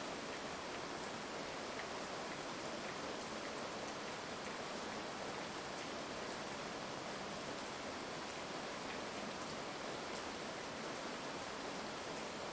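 Steady heavy rain, an even hiss with scattered faint drop ticks and no thunder.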